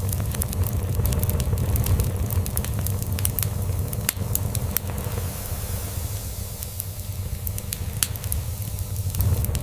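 Crackling log fire in a fireplace, with frequent sharp irregular pops and snaps. Underneath runs a continuous low rumble, a cat purring, which eases off slightly partway through and swells again near the end.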